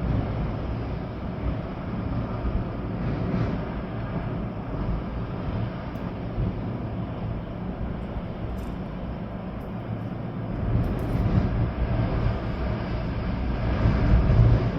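Storm wind gusting through trees with rain, a deep rumbling rush; a stronger gust builds in the last few seconds.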